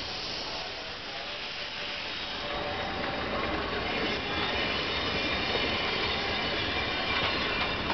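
Canadian Pacific Holiday Train cars rolling past at close range: a steady noise of wheels running on the rails.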